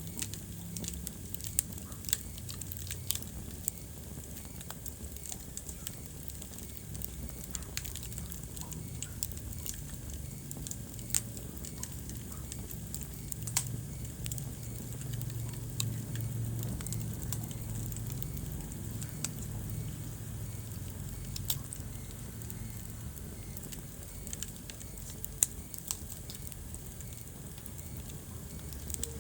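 Wood fire burning in a fireplace: a steady low rumble of flames with irregular crackles and pops from the burning logs, a few pops sharper and louder than the rest.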